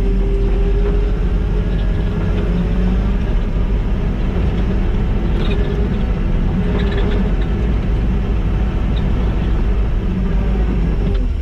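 Kubota skid steer's diesel engine running steadily while grading with a grader attachment, a wavering whine over the engine's drone and a few faint clanks.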